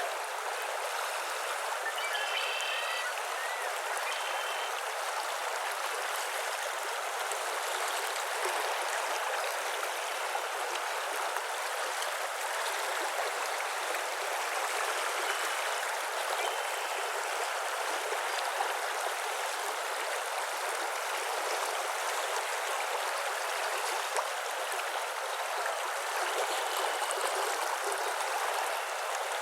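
A steady rush of flowing water, with a few faint, brief bird calls a couple of seconds in, around the middle and near the end.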